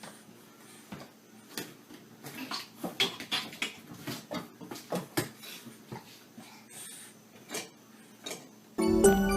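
Irregular light clicks and clattering, like small hard objects knocking together, with music coming in near the end.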